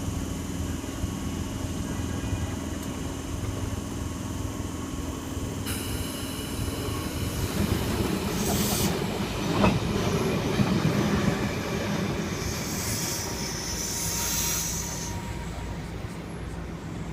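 Sydney double-deck electric suburban train moving through the station: a steady electric hum at first, then wheel and rail noise building up about six seconds in, with a sharp knock and high-pitched wheel squeal in the middle and again a few seconds later.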